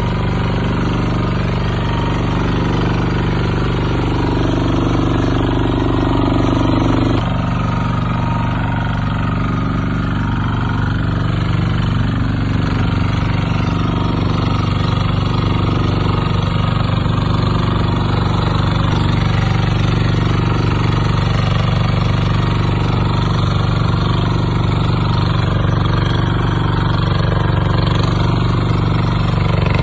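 Kubota RT140 walking tractor's single-cylinder diesel engine running steadily with a rapid chugging beat.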